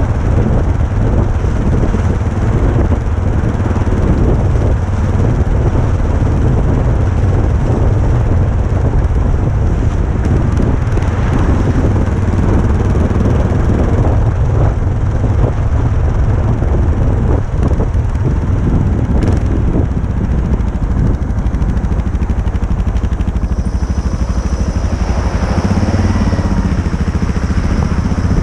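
Motorcycle engine running while riding, with a heavy low rumble and wind noise on the microphone; a faint high whine joins near the end.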